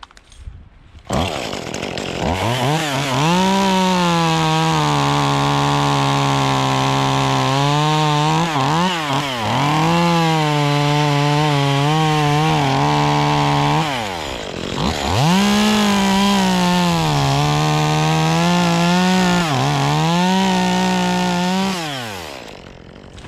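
Echo CS-2511T top-handle two-stroke chainsaw revving up about a second in and running at high revs while cutting wood, its pitch dipping and recovering several times. It drops briefly near the middle, revs up again, and winds down near the end.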